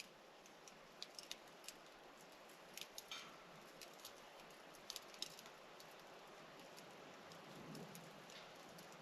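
Near silence: faint quiet night ambience with a few soft, scattered ticks.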